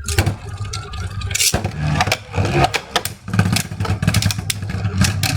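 Beyblade spinning tops whirring and clashing in a plastic stadium, with rapid clacks and scraping throughout.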